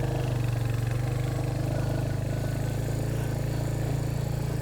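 Motorcycle engine running steadily under load in a low gear while climbing a steep hill.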